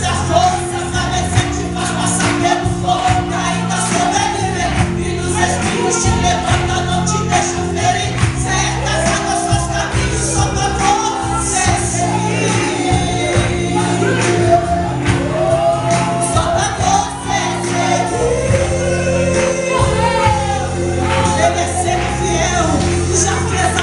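Gospel worship song: voices singing over held keyboard chords and a steady beat.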